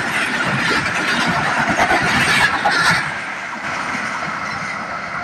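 Pakistan Express passenger coaches rolling past at speed: steady wheel-on-rail noise. About three seconds in, the last coach goes by and the noise drops and dulls as the train moves away.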